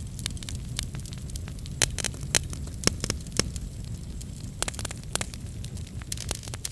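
Wood fire in a fireplace crackling, with many small sharp pops over a steady low rumble of the flames and a few louder pops a couple of seconds in.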